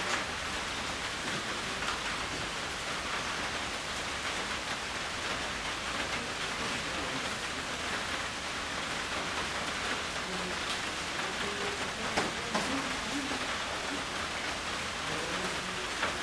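Steady rain falling, an even hiss of drops, with a couple of louder taps of drops about three-quarters of the way through.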